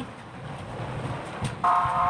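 Low background noise, then a click and a steady, flat buzzing tone that begins about one and a half seconds in.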